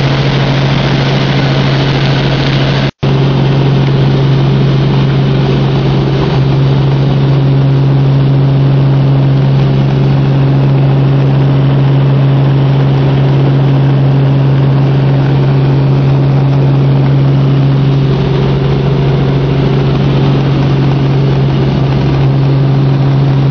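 Helicopter in flight: steady, loud engine and rotor noise with a constant low hum. The sound cuts out for an instant about three seconds in.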